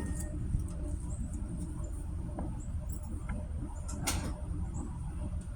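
Chrysler 340 small-block V8 running at low revs through headers and two-chamber Flowmaster mufflers: a steady, low, pulsing exhaust rumble with a few faint clicks.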